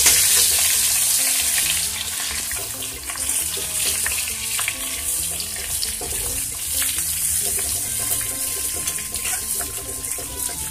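Stuffed okra sizzling in hot mustard oil in an iron kadhai while a metal spoon tosses it, scraping and clinking against the pan. The sizzle is loudest at first and eases after about two seconds.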